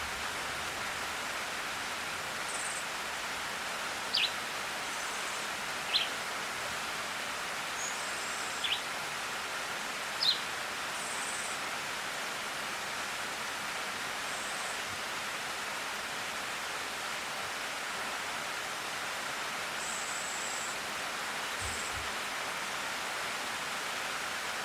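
Steady hiss of falling rain. A bird gives a short high call four times in the first half, each call falling in pitch.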